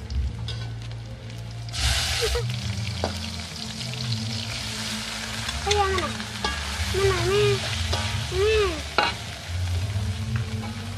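Shredded tongkol tuna frying in a wok, sizzling as a metal spatula stirs it, with a louder burst of sizzling about two seconds in. A few short chirping calls sound in the middle.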